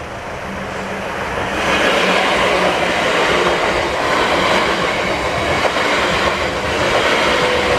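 Passenger train passing over a level crossing, its wheel and rail noise building over the first two seconds, then holding steady and loud as it goes by.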